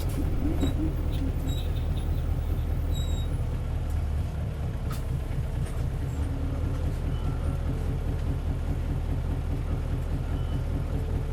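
Isuzu Cubic bus's 8PE1-S V8 diesel engine running at a steady pitch, with a few faint short squeaks and ticks from the bus in the first few seconds.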